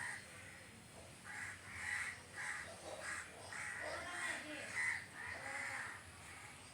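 A crow cawing repeatedly, a run of about ten caws at roughly two a second.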